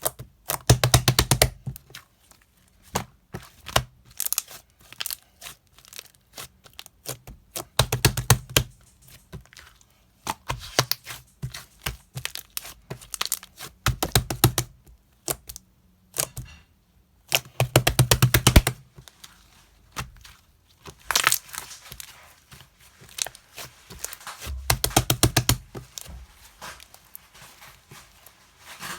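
Close-up handling noise: clusters of crackling and tearing sounds mixed with sharp clicks and knocks, coming in bursts every few seconds.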